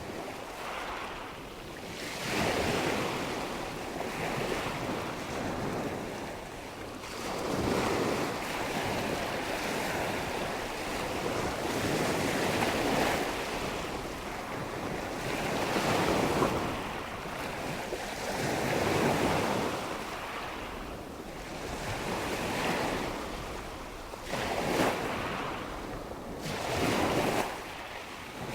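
Waves washing in, a rushing noise that swells and falls back about every three seconds, with wind.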